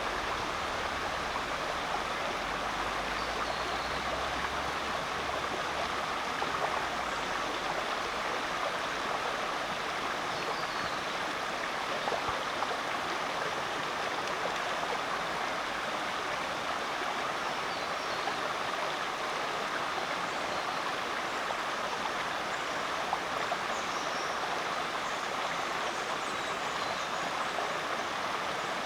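Rainforest creek water running steadily over rocks, an even rushing and babbling that does not let up.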